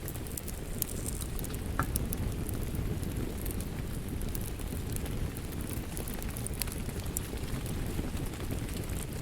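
Wood fire crackling, with scattered sharp pops that come thickest in the first couple of seconds, over a steady low rush of rain.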